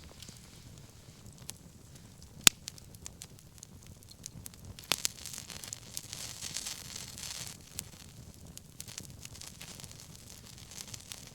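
Wood bonfire crackling, with a sharp pop about two and a half seconds in and another about five seconds in, followed by a couple of seconds of hissing.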